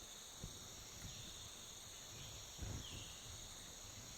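Faint, steady chorus of insects such as crickets, a high even buzz with short falling chirps about once a second. Two soft low thumps stand out, about half a second in and past the middle.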